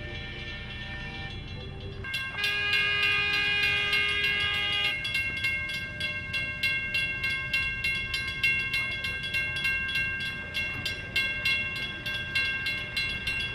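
A miniature steam locomotive blows its whistle, a chord of several steady tones that starts suddenly about two seconds in, while its exhaust chuffs about four times a second. The louder whistle notes drop out about five seconds in; some tones sound on under the chuffs.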